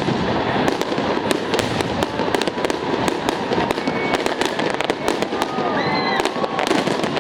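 Fireworks display: a dense, continuous run of bangs and crackling pops, with people's voices calling out over it.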